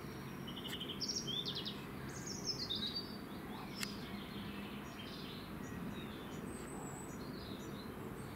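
Songbirds singing outdoors: several quick trilled phrases, some stepping down in pitch, most of them in the first three seconds, over a steady low background rumble.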